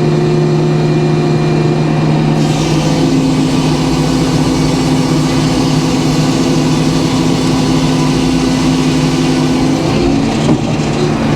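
Engine-driven sawmill running, with a saw cut through a white oak log. From about two seconds in to near the end, the blade's cutting noise fills in over the engine. The engine's pitch drops as it pulls under the load of the cut, then comes back up as the cut ends.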